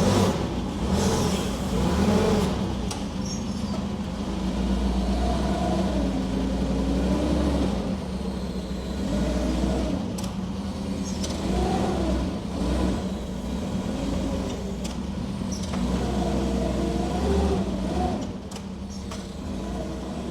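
Forklift engine running and revving up and down as the machine is driven and manoeuvred, with a steady low hum underneath.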